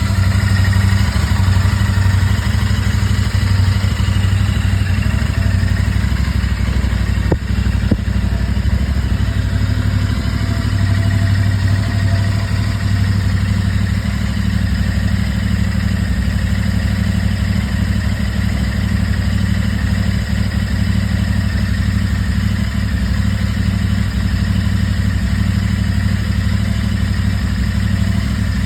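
Royal Enfield Interceptor 650's 648 cc parallel-twin engine idling steadily after a cold start. Two faint brief clicks come about seven and a half seconds in.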